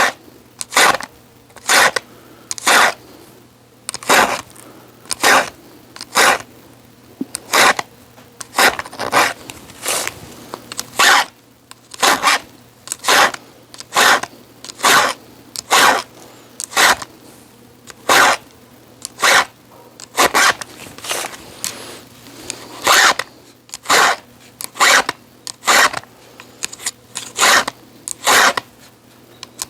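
Repeated scraping strokes of a hand tool on wood or metal, a bit more than one stroke a second, each short and rasping, in an even working rhythm.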